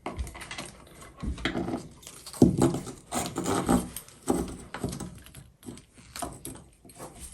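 Irregular knocks, clinks and rustling of faucet parts being handled and fitted by hand at a bathroom sink.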